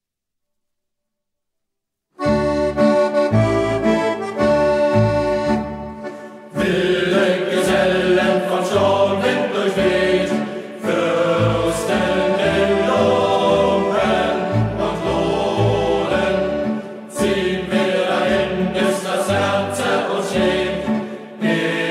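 After about two seconds of silence, a song starts with an instrumental introduction of held notes; after about four more seconds a youth group's voices join in, singing together over the accompaniment.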